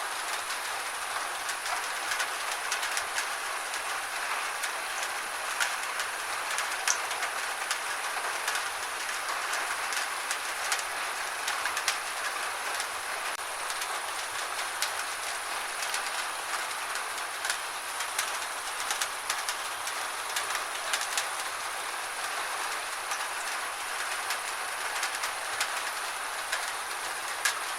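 Gentle rain falling steadily: an even hiss with many scattered sharp ticks of individual drops.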